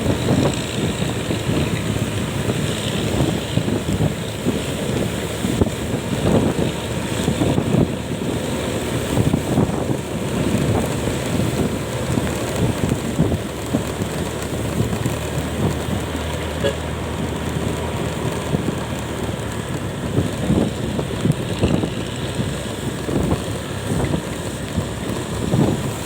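Wind buffeting the microphone on a moving vehicle, a gusty low rumble that surges and eases, with road and engine noise underneath.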